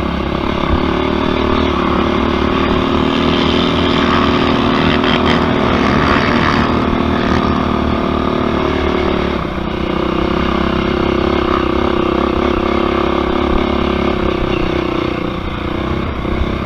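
Yamaha YFZ racing quad's single-cylinder four-stroke engine running hard at a steady high rev. It drops off briefly a little past halfway, then pulls again.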